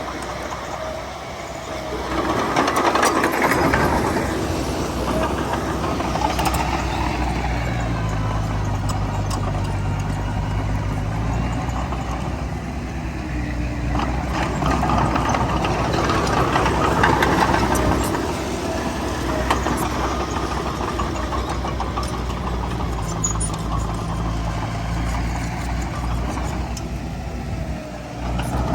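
Heavy diesel engine of earthmoving machinery running under load, swelling louder twice as it works, with steady engine tones in between.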